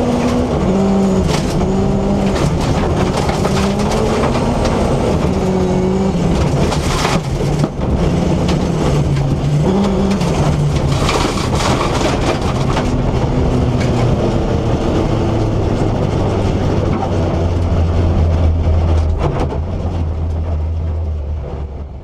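BMW E30 rally car's S14B25 four-cylinder engine running hard, its pitch rising and falling again and again as it is driven through the gears, with scattered sharp knocks. Near the end it settles into a steadier, lower note and fades out.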